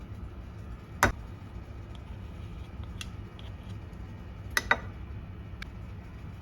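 Kitchen utensils and dishes being handled, giving a few sharp clicks and knocks: a loud one about a second in, a fainter one near three seconds, a quick double click past four and a half seconds and a faint one near the end. A steady low hum runs underneath.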